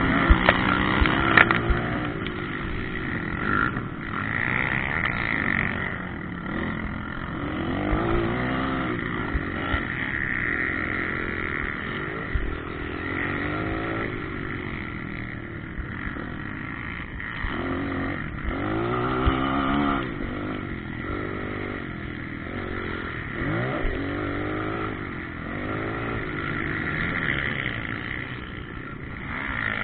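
Motocross motorcycle engines revving hard and easing off as they ride the track, the pitch climbing and falling again every second or two.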